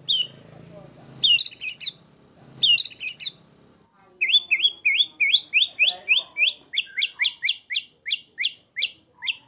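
White-rumped shama (murai batu) singing: two short, harsh rattling phrases, then from about four seconds in a long fast run of repeated sharp whistled notes, about four a second.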